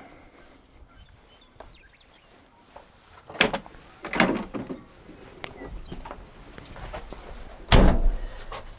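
A few separate knocks and clunks: one about three and a half seconds in, a short cluster about a second later, and a loud heavy thump near the end.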